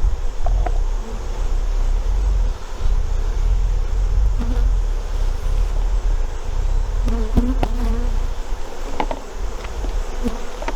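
Honeybees buzzing around an open hive, with single bees buzzing close past a few times, over a steady low rumble.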